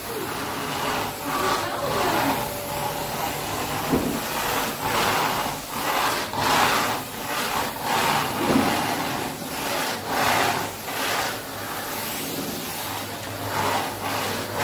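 Canister vacuum cleaner running, its floor nozzle pushed back and forth so the hiss of the suction swells and fades with each stroke.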